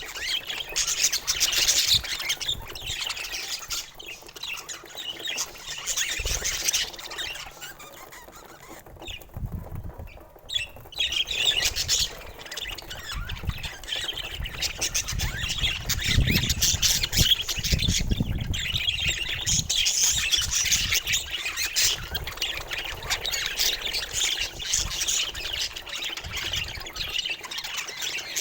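Pet budgerigars chattering and squawking in a dense, overlapping twitter that eases off for a few seconds about a third of the way in. A low rumble runs for a couple of seconds past the middle.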